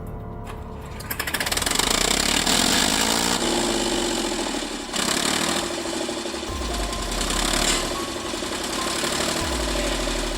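Tractor engine running hard with a loud, dense clatter, growing louder about a second in.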